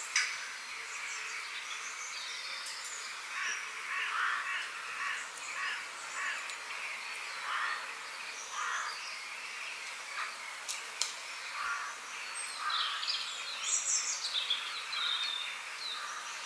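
Several wild birds calling and chirping over a steady outdoor hiss. A run of short, harsh calls comes from about 3 to 9 seconds in, and higher chirps cluster near the end.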